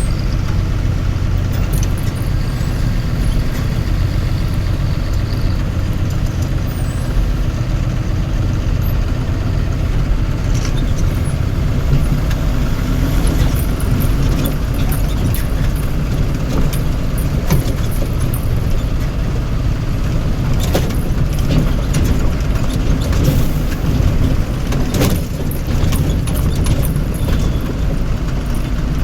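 Heavy motor vehicle engine running steadily with a deep rumble, with scattered clicks and rattles over it.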